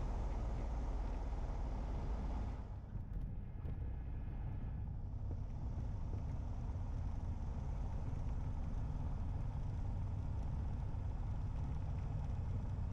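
Piper single-engine light aircraft's engine and airflow droning as heard inside the cabin. The higher hiss drops off about two and a half seconds in and partly comes back a couple of seconds later, while the low drone holds steady.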